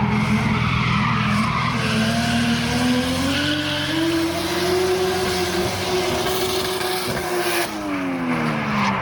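Drift car engine revving, the pitch climbing over the first five seconds and holding high while the tyres squeal in a slide; the revs drop away near the end.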